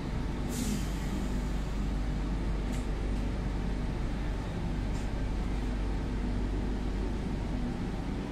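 Electric suburban train starting to pull out of an underground station, heard from inside the carriage: a steady low rumble, with a short sharp hiss of air about half a second in and two fainter hisses later.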